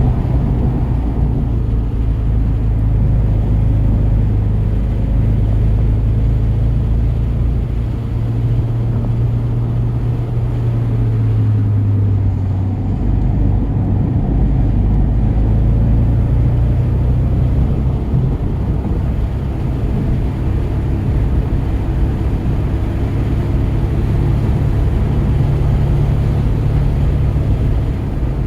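2017 Volkswagen GTI's tuned turbocharged 2.0-litre four-cylinder engine running hard on track, its pitch rising and falling with the revs over road and wind noise.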